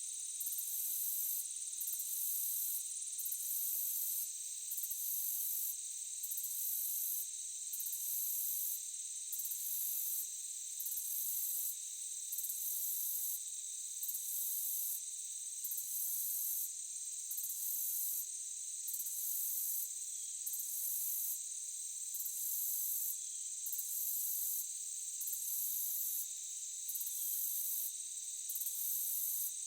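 Forest insects chirring: a steady high-pitched trill under a higher call that pulses on and off about every second and a half.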